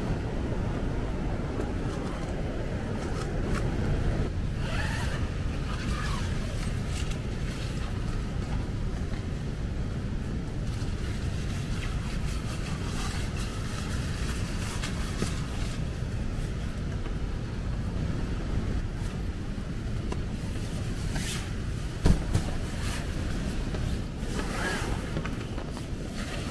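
Heavy typhoon rain and wind, a steady low rushing. A few brief crackles break into it, and there is one sharp knock near the end.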